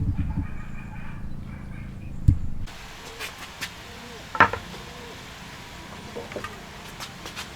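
A low steady rumble with one sharp knock, cut off suddenly about two and a half seconds in, followed by scattered light knocks and taps of work on wood.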